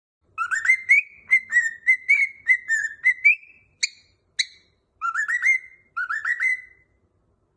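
Cockatiel whistling a song: a quick run of short whistled notes, each sliding up at the start, broken by two sharp chirps, then two short rising phrases.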